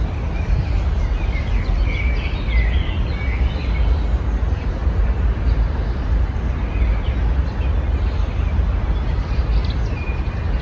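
Small birds chirping and twittering in short bursts, busiest a couple of seconds in and again near the end, over a steady low rumble that is the loudest sound throughout.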